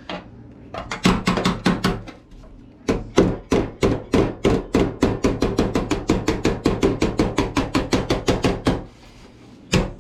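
Hammer striking a steel sheet-metal patch panel to fold and shape its edge: a short run of blows about a second in, then steady strikes about five a second for several seconds, stopping near the end.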